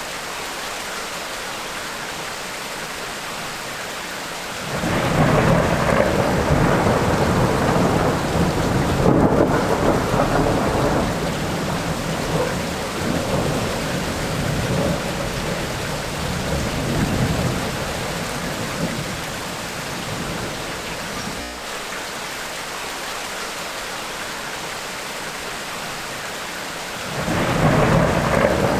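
Steady rain with a long rumble of thunder that rolls in about five seconds in and fades out over the next fifteen seconds or so, leaving only the rain; a second thunder rumble starts near the end.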